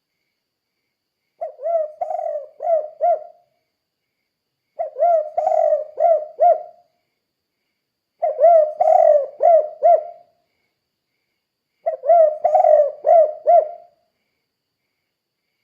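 Spotted dove (tekukur) cooing: four phrases of about two seconds each, every phrase a quick run of five or six coos, with pauses of roughly a second and a half between phrases.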